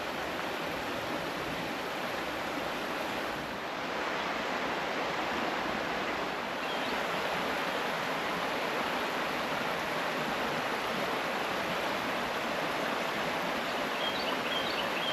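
Creek water rushing steadily over rocks, an even hiss of flowing water that grows slightly louder about four seconds in.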